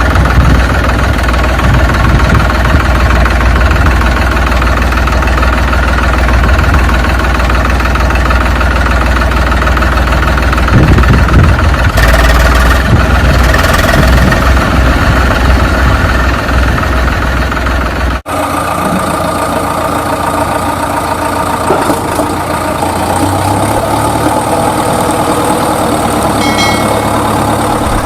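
A vehicle engine running steadily with a low rumble. It cuts off abruptly about two-thirds of the way through and gives way to a different engine sound of another pitch.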